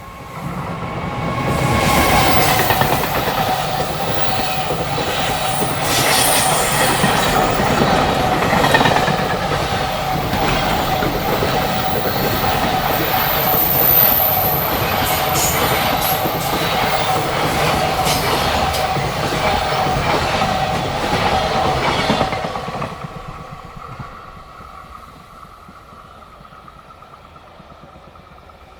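A freight train passing close by: wheels clattering over the rails and a steady hum. It is loud for about twenty seconds, then fades quickly as the train moves away.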